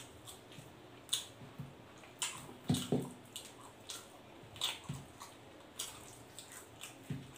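Close-up wet chewing and lip-smacking of someone eating roast pork leg (lechon pata) by hand. Short, irregular smacks come about twice a second.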